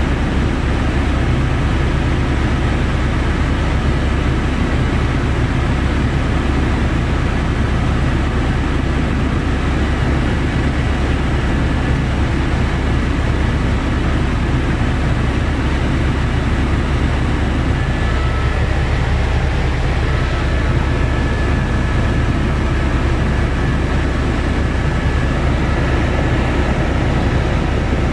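Helicopter's engine and rotors running steadily in flight: a heavy, even low drone with a faint high whine over it.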